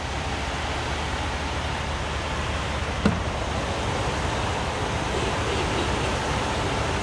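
Steady vehicle noise, a low hum under an even hiss, with a single short click about three seconds in.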